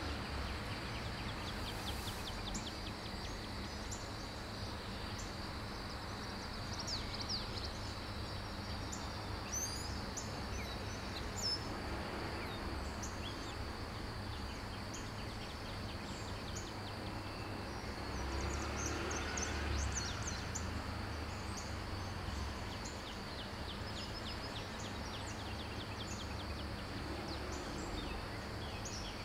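Quiet background ambience: birds chirping in short scattered calls over a steady high-pitched drone and a faint low hum.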